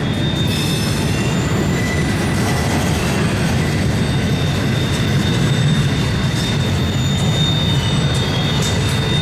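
Long CSX intermodal freight train's cars rolling past in a steady rumble, with thin, high wheel squeals coming and going.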